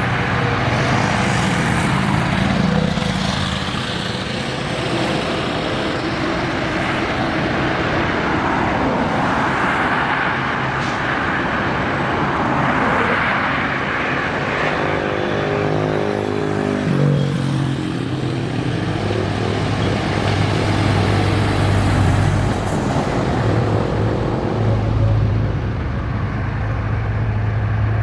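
Busy highway traffic of trucks and cars passing, with steady tyre roar and diesel engine noise. About halfway through, one vehicle's engine drops in pitch as it goes by, followed by a low, steady engine drone.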